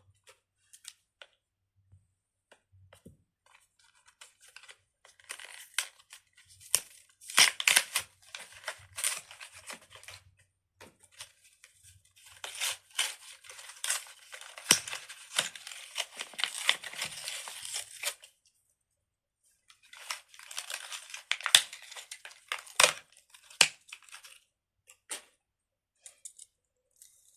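Scissors poking a hole in a fidget toy: plastic crinkling and tearing with sharp clicks, in three long stretches with short pauses between.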